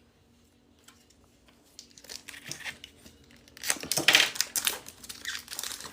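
Foil Pokémon Stellar Crown booster pack wrapper being torn open and crinkled in the hands. It starts about two seconds in as crackling and is loudest around four seconds.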